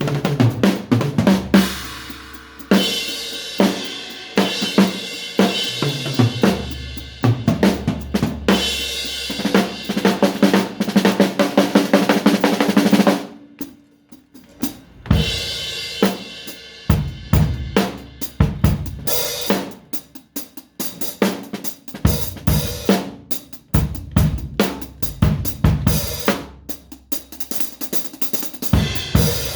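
Drum kit being played freely, with snare, kick drum, hi-hat and cymbals. A dense run with crashing cymbals stops abruptly about halfway through, and after a brief pause the playing picks up again.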